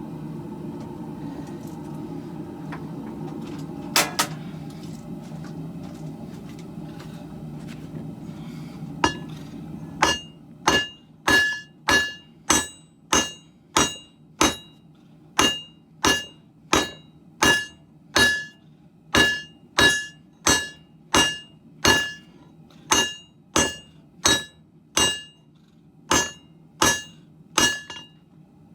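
Hand hammer forging a steel sword billet on an anvil. After a steady low rumble and a single strike about four seconds in, regular blows start about ten seconds in, a little over one a second, each with a clear metallic ring.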